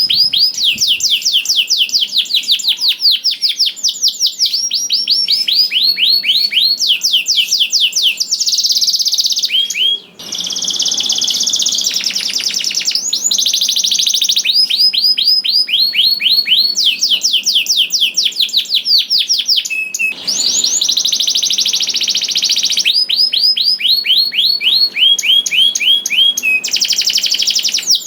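Domestic canary singing a long, continuous song of rapid, high-pitched repeated trills, with a brief pause about ten seconds in and another around twenty seconds in.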